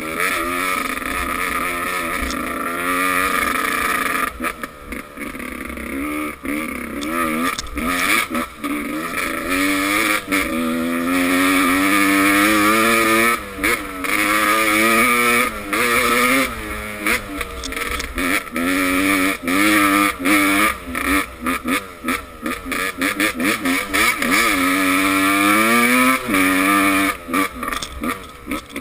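Motocross motorcycle engines revving, their pitch climbing and falling again and again as the riders open and close the throttle and change gear. The sound drops out in many brief gaps, more often in the second half.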